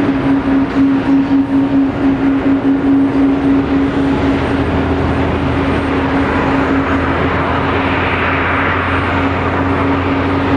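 Boeing 777-200 jet airliner's engines running, a continuous drone with a steady low hum and a broad rush that swells about eight seconds in.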